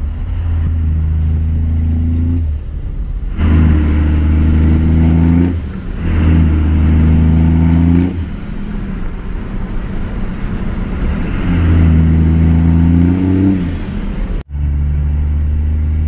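Cummins diesel pickup engine revved five times through a 4-inch MBRP turbo-back exhaust with a 10-inch tip. Each rev is held steady for about two seconds and then drops back. The exhaust crackles, with a faint high whistle rising and falling with each rev. The sound cuts out for an instant near the end.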